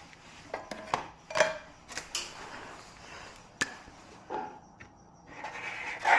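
Irregular sharp clicks and taps, about seven of them at uneven intervals, typical of small tools or parts being handled and set down on a repair bench.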